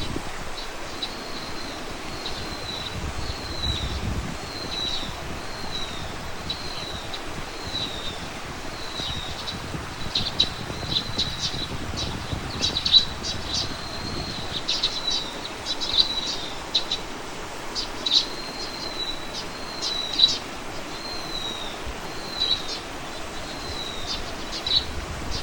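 Birdsong: a small bird repeats a short, high, slightly falling note about every two-thirds of a second, and from about ten seconds in, sharper, quicker chirps join it.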